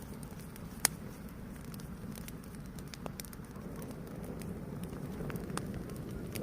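Fire burning with a steady low rush and scattered crackles and pops, one sharp loud pop about a second in.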